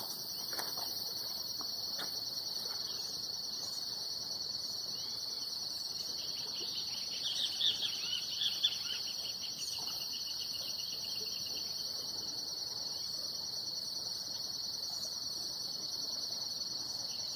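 Insects trilling steadily in a high, unbroken chorus. A bird calls in a quick run of short chirps around the middle.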